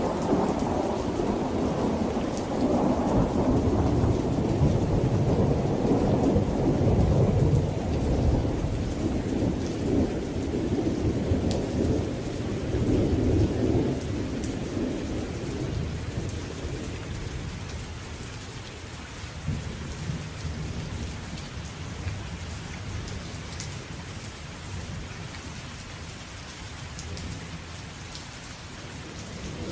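Steady rain with fine pattering drops under a long rolling thunder rumble. The rumble is loudest in the first half, dies away after about fourteen seconds, and returns more faintly a few seconds later.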